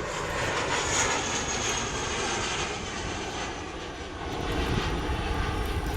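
Jet airliner taking off, its engines a steady rushing noise with a faint high whine. Wind rumbles on the microphone, growing stronger near the end.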